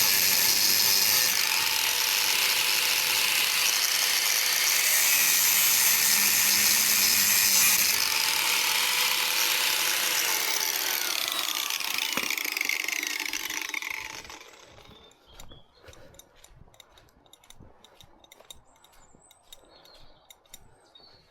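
Angle grinder cutting into a jammed steel padlock, its sound shifting as the disc bites. About two-thirds of the way through it is switched off and winds down in pitch to a stop, followed by light metallic clicks and rattles.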